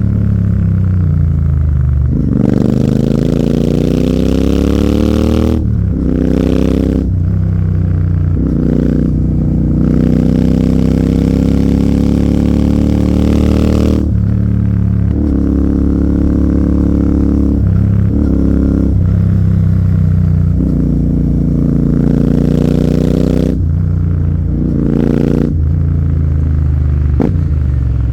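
Royal Enfield Continental GT 650's 648 cc parallel-twin engine through an AEW 103 aftermarket exhaust, accelerating and shifting up through the gears several times: the pitch rises and then drops at each change, with easing off between pulls. Wind noise rises with the engine during the harder pulls.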